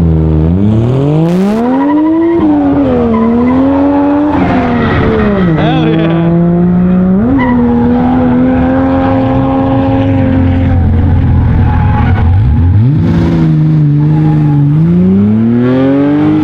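Drift car engine at high revs, its pitch climbing and falling repeatedly as the throttle is worked through a drift, held steady for about three seconds in the middle, with tire squeal underneath.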